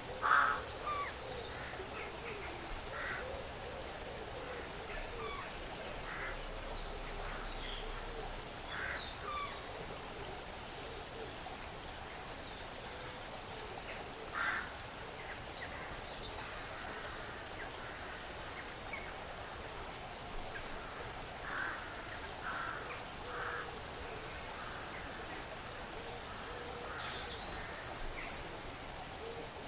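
Woodland ambience: birds giving short, scattered calls over a steady background hiss, with the loudest call just after the start and another about halfway through.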